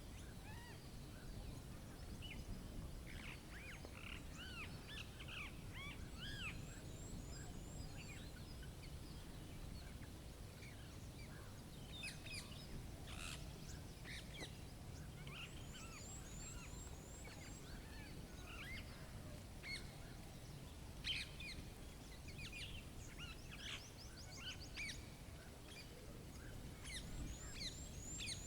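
Small songbirds chirping and calling: many short arching chirps, with a quick high trill three times, over a low steady rumble.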